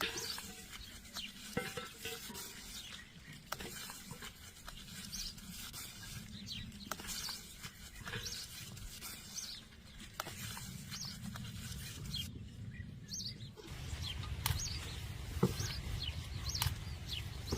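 Small birds chirping, with scattered light clicks and knocks over a low steady rumble.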